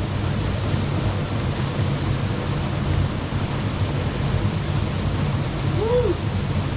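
Steady rushing of a waterfall, an even, unbroken wash of noise heaviest in the low end. A brief pitched sound that rises and falls comes near the end.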